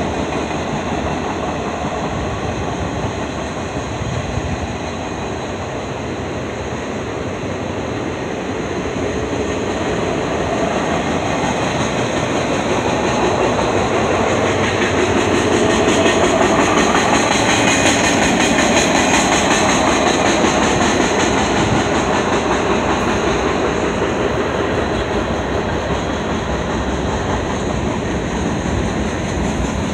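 Freight train cars rolling past, a mix of flatcars and covered hoppers. Their steel wheels make a steady rolling rumble on the rails that swells to its loudest about halfway through.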